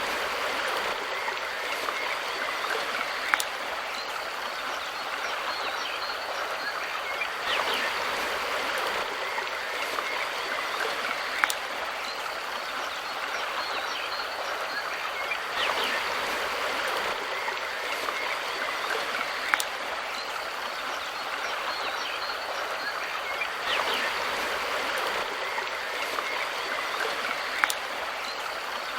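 River water rushing and splashing steadily over stones, with a sharp click about every eight seconds.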